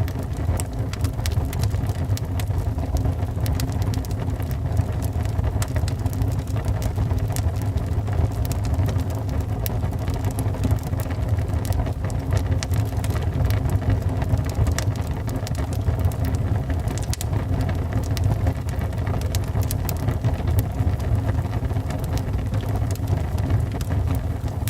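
Wood fire burning in a fireplace: a steady low rumble of the flames with frequent small crackles and pops from the burning wood.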